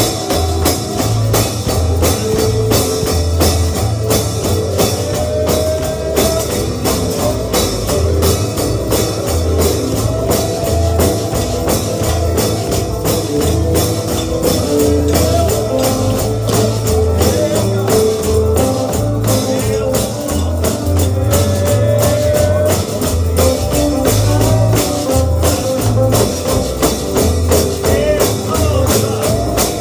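Upbeat bluegrass gospel music, with a tambourine striking a steady fast beat over a stepping bass line and a melodic lead instrument. No words are sung here.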